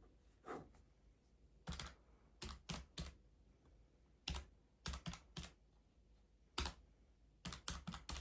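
Keys pressed in short, irregular runs: about fifteen quiet separate clicks, some in quick groups of two or three, with pauses between.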